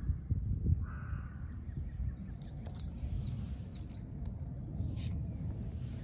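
Birds calling: a harsh caw about a second in, then a run of four quick, repeated chirping notes about three seconds in. Under them runs a low rustle with a few light clicks.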